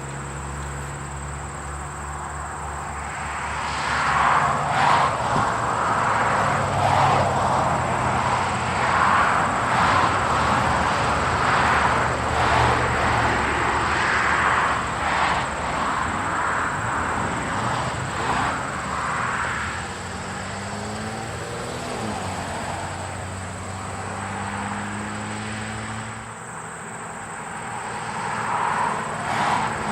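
East Broad Top narrow-gauge steam train running on the line: a steady low rumble, with a louder rush of noise from about four seconds in that eases off about twenty seconds in and comes back near the end.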